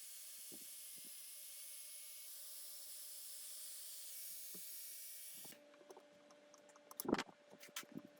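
Steady hiss of compressed air that cuts off sharply about five seconds in, over a faint steady hum. A few sharp clicks and knocks follow near the end.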